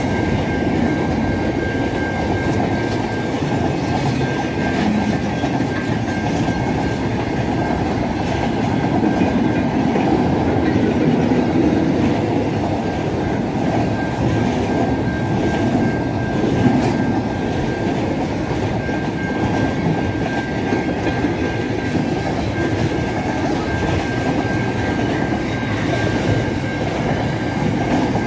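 Freight train wagons rolling past, a continuous rumble of steel wheels on the rails, with a thin steady high tone running through much of it.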